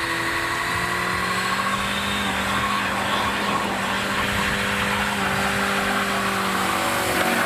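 Car engine held at steady high revs in a wet burnout, the rear tyres spinning on water-soaked tarmac, with a hiss from the tyres under the engine note.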